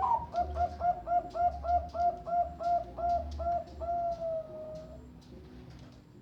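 Perkutut Bangkok (zebra dove) cooing: a quick run of about a dozen short notes, then one long drawn-out note that falls slightly in pitch.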